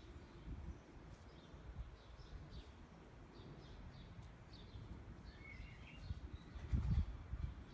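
Small birds chirping: a run of short, high chirps, then a brief warbling call, over a low steady rumble. A louder low thud or rustle comes about seven seconds in.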